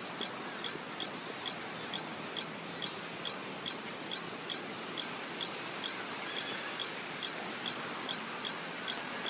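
Steady outdoor hiss with a short, high chirp repeating very evenly, a little more than twice a second.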